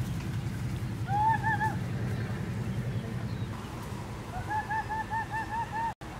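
A bird calling in quick runs of short, repeated notes, three about a second in and a longer run of about seven near the end, over a steady low background hum.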